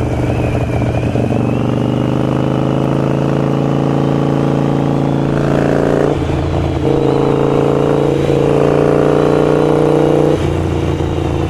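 Harley-Davidson Sportster 883's V-twin exhaust through Vance & Hines Grenades slip-on mufflers, running under steady throttle while riding. The note changes about halfway through and again near the end.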